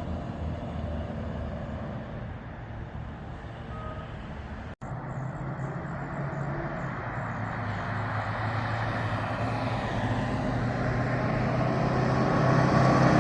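Fire truck engine running as the truck moves, drawing nearer and growing steadily louder over the second half. The sound drops out for an instant about five seconds in.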